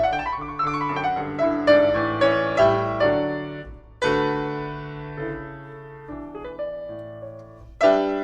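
Background piano music: a melody of struck notes over sustained bass, with a fuller chord about four seconds in that slowly fades before another chord strikes near the end.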